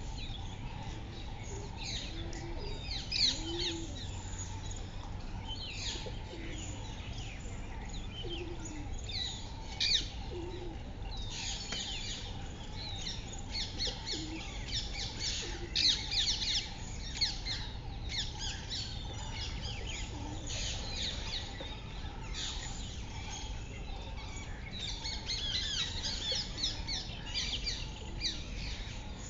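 Small birds chirping: many quick, high chirps in clusters, over a steady low background noise.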